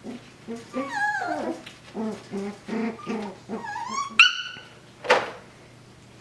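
Coton de Tulear puppies yipping and whining as they play-wrestle, with a run of short low yaps and a sharp rising yip about four seconds in.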